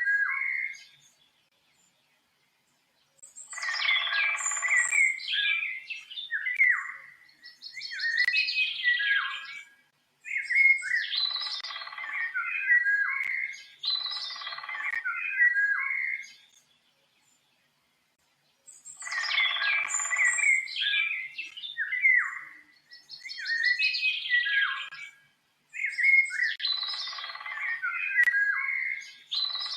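A songbird singing quick, varied whistled and warbling phrases of two to four seconds each, with short pauses between them and two longer silent gaps, one near the start and one around the middle. The same run of phrases comes round twice.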